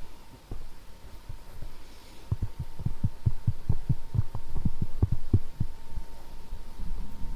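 Soft, close-miked tapping: a quick run of low dull thumps, about three to four a second, starting about two seconds in and stopping a little past halfway, over a faint steady hum.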